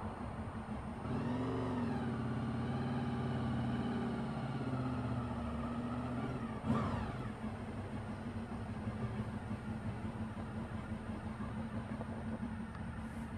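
A motor vehicle's engine running over a steady low hum. Its pitch dips and rises from about a second in, then climbs and cuts off with a short sharp noise just before halfway.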